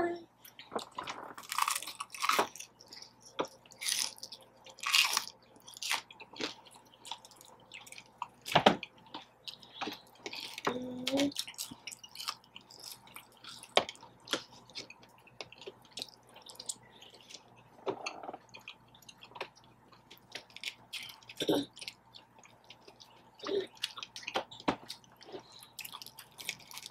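Close-miked chewing and eating: irregular wet smacks and clicks of a mouth working through fried food.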